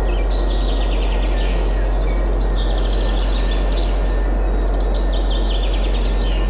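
Small songbirds singing in quick trills and chirps, several at once, over a steady rushing wind. A constant deep hum runs underneath.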